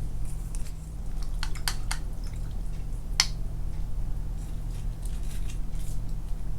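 Close-miked wet eating and mouth sounds: scattered soft clicks and squishes, with one sharper click about three seconds in, over a steady low hum.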